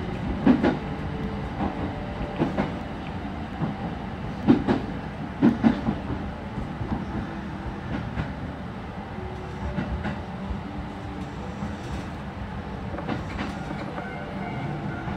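Kintetsu Suzuka Line electric train running, heard from inside the front cab: a steady running rumble with sharp wheel clacks over the rail joints, some in close pairs. The clacks come mostly in the first six seconds and thin out after that.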